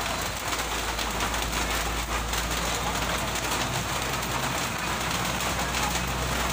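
Heavy rain falling steadily, with a truck engine running low underneath.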